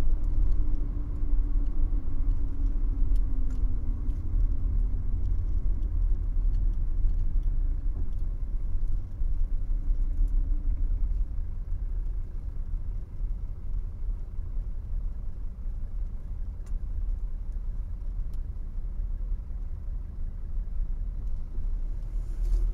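Mercedes-Benz W123 300TD's 88 hp five-cylinder diesel and automatic drivetrain running at low speed, heard from inside the cabin as a deep steady drone with road noise. A tone in the engine note sinks slightly over the first few seconds, and the sound grows quieter toward the end as the car slows.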